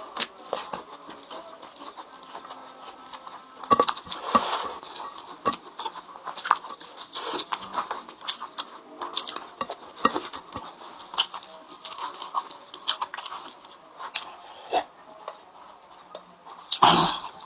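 Close-miked eating: chewing and small mouth clicks, irregular and continual, with a louder short noisy sound near the end.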